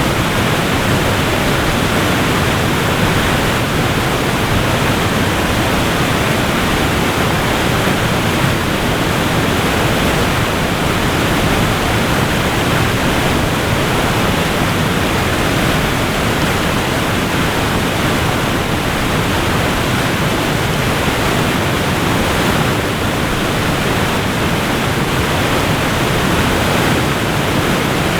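Waterfall: water pouring and crashing in a steady, loud, even rush that never changes.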